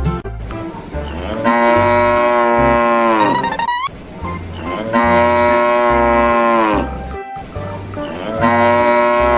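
Cow mooing three times, each a long moo of about two seconds that drops in pitch at its tail. Background music with a low beat plays underneath.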